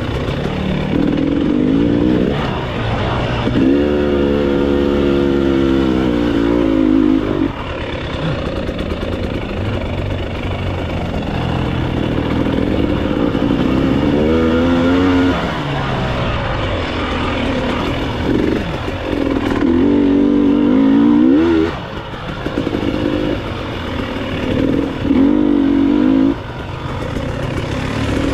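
Enduro dirt bike engine running under way, revved up and eased off repeatedly, with several rising bursts of throttle.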